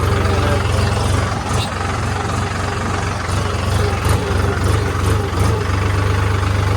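Heavy diesel engine idling, a steady low drone, with a few faint knocks over it.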